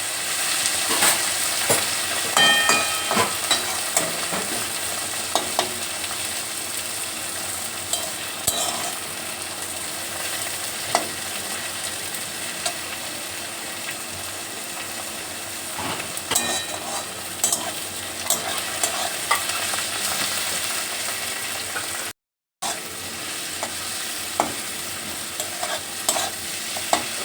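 Onions and chopped tomatoes sizzling in mustard oil in a kadai. A spatula stirs them, scraping and knocking against the pan every second or so.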